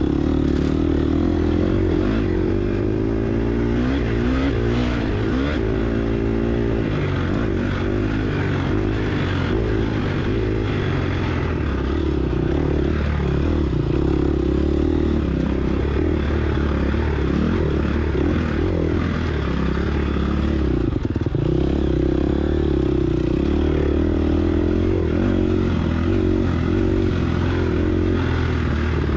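Gas Gas EX250F dirt bike's single-cylinder four-stroke engine being ridden hard, its pitch rising and falling continuously as the throttle opens and closes, with rattling and clatter from the bike over rough ground.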